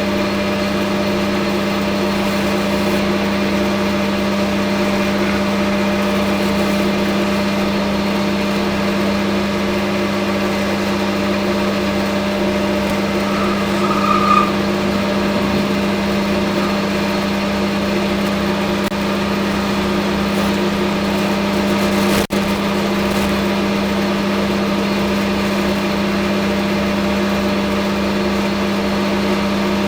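Hafco Metal Master AL960B metal lathe running steadily, a constant motor and gear hum. A brief higher-pitched note sounds about halfway through, and the sound drops out for an instant about two-thirds of the way in.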